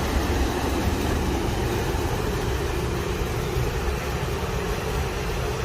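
Kitchen smoke extractor fan running steadily: a continuous rush of air over a deep rumble.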